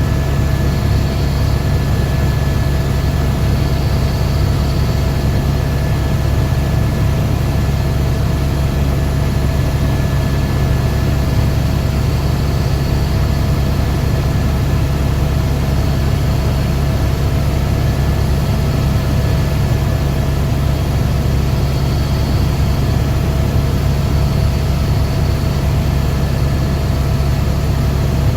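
Helicopter in flight: a steady, loud low rumble of the rotor with a constant whine from the turbine engine, unchanging throughout.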